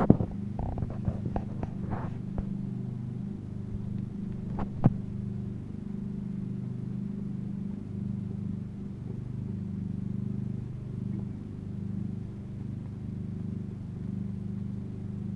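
A motor running steadily with a low, even hum, with a few sharp clicks in the first few seconds.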